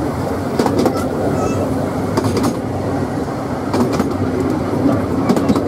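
Narrow-gauge train carriage running along the track: a steady rumble of wheels on rail, with pairs of clicks about every second and a half as the wheels cross rail joints.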